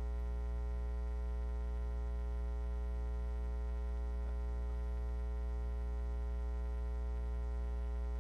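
Steady electrical mains hum with a ladder of overtones, unchanging throughout: ground-loop hum on the announcer's microphone and PA line.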